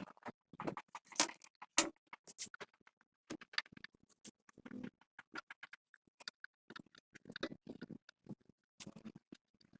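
Irregular clicks, taps and short scrapes of hand work on small metal parts, with no steady rhythm.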